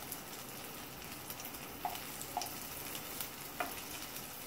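Sweet potato tikkis shallow-frying in oil in a non-stick pan, a soft steady sizzle, with a few light clicks as they are turned over with a wooden spatula.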